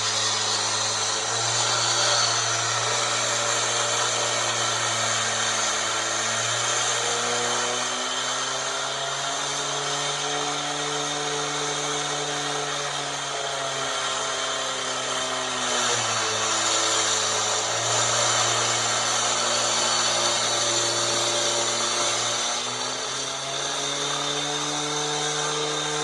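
Power saw cutting concrete. It runs continuously, with a pitched motor note that sags and recovers as the blade is loaded and eased, over a wide gritty hiss from the cut.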